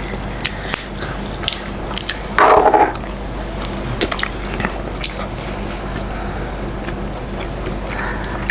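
Close-miked wet chewing and mouth sounds of people eating crispy fried chicken katsu: a run of small sharp clicks and smacks, with a louder short sound about two and a half seconds in.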